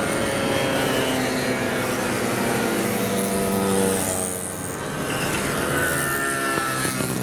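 Mopeds riding past one after another, several engines overlapping, their pitch sliding up and down as they pass, with a short lull about two thirds of the way through.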